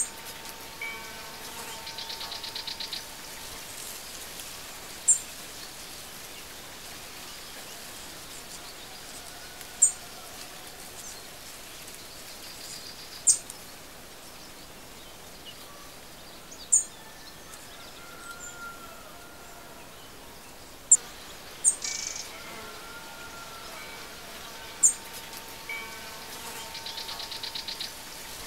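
Birds chirping over a steady hiss of outdoor ambience. Short, sharp high chirps come every few seconds, and a quick rapid trill sounds near the start and again near the end.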